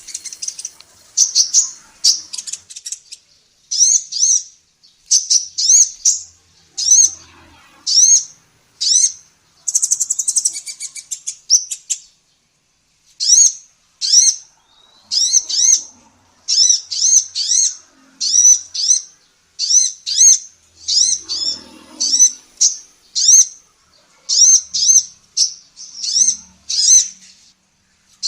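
Female kolibri ninja (a sunbird) calling in a long run of short, high, hooked chirps, about two a second. There is a brief rapid trill about ten seconds in and a short pause just after it.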